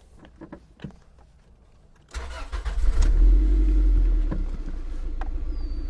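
Toyota MR2 Spyder's 1.8-litre four-cylinder engine being started: about two seconds in the starter turns it over, the engine catches and runs up loudly for a moment, then settles into a steady idle.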